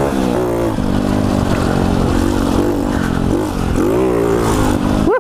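Pit bike engine running under load while being ridden, its pitch rising and falling with the throttle, with a rev up and back down about four seconds in.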